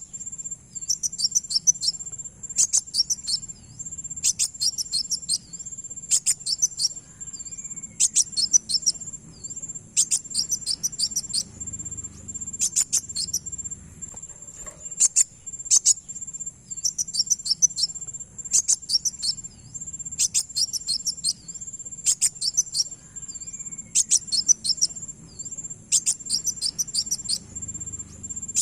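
Recorded calls of a kolibri wulung (kowul) sunbird used as a lure: short bursts of rapid, sharp high chirps about every two seconds. Under them runs a steady, high, cricket-like whine.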